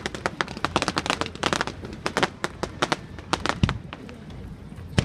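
Aerial fireworks crackling: a rapid string of sharp pops, dense for the first two seconds or so and then thinning out, with a deeper bang about three and a half seconds in.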